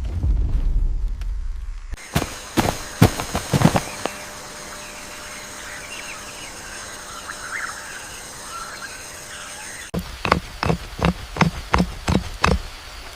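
Forest ambience: a low rumble gives way abruptly to a steady high insect-like buzz. Twice it is broken by a quick run of sharp knocks or footfalls, the second run about ten strokes over two and a half seconds near the end.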